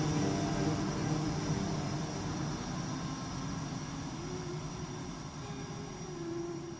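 A steady low rumbling drone with a few faint held tones, slowly fading away.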